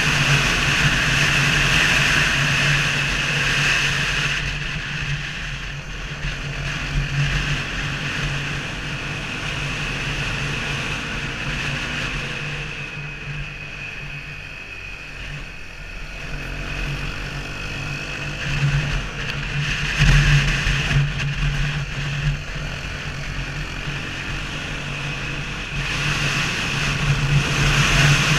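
Honda CRF250L single-cylinder motorcycle engine running steadily under way. It eases off somewhat about halfway through and picks up again towards the end.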